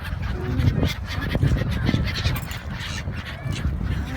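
Seabirds calling: several short calls, some with a quick rise and fall in pitch, over a steady low rumble.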